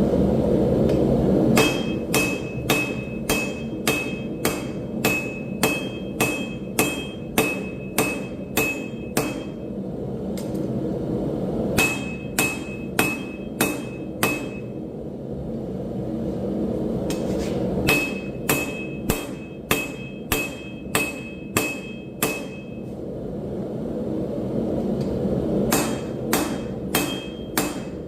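Hand hammer striking steel on an anvil, about two blows a second in runs of several seconds broken by short pauses, each blow with a bright metallic ring. A steady low rumble runs underneath, loudest in the first second and a half before the hammering starts.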